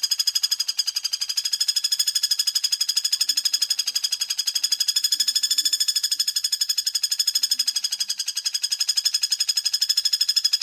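Common flameback woodpecker (pelatuk bawang) call played as a lure: a long, high, fast and even trilling rattle that cuts off suddenly at the end.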